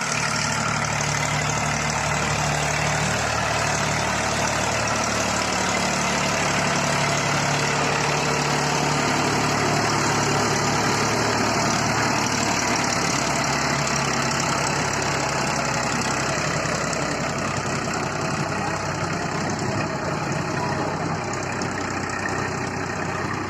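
Sonalika DI 750 tractor's diesel engine running steadily, a little quieter near the end.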